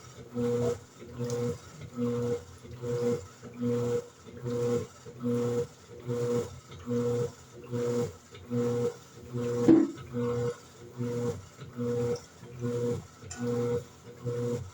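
Electrolux LED14 top-loading washing machine agitating: the agitator motor hums in short strokes, about one and a quarter a second, reversing back and forth, with one briefly louder sound about ten seconds in. The owner believes its clutch is worn, letting the basket turn during agitation.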